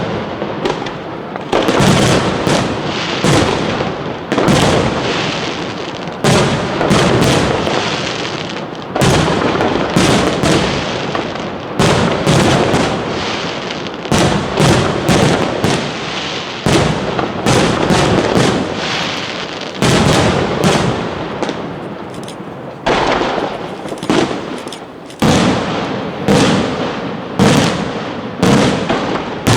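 Professional aerial fireworks display: shells bursting in rapid, overlapping succession, a loud bang every second or two with smaller bangs in between.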